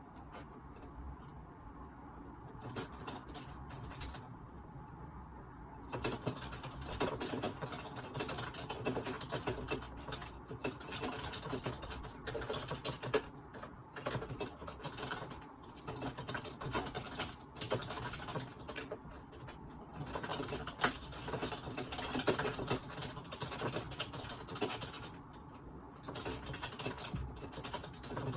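Typing on a computer keyboard, picked up by a phone microphone: a few scattered keystrokes at first, then steady, fast typing from about six seconds in.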